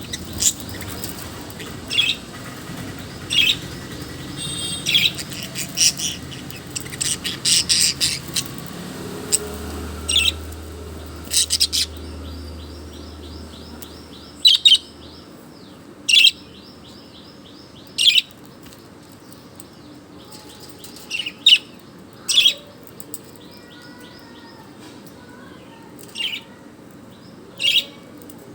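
Pet bird chirping: short, sharp, high calls every second or two, with fainter rapid chatter between them.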